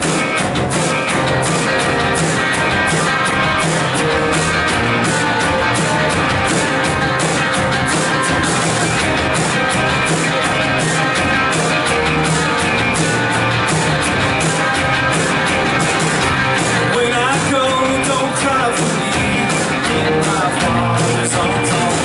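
Live worship band playing an upbeat rock-style song with a steady drum beat.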